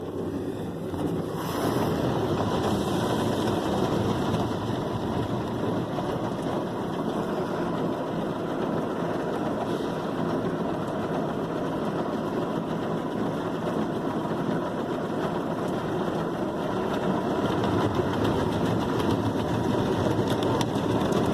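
Ryko Softgloss Maxx automatic car wash running, its foam brushes spinning and scrubbing the truck amid spraying water: a steady, dense wash noise with a faint steady whine, growing a little louder about a second and a half in.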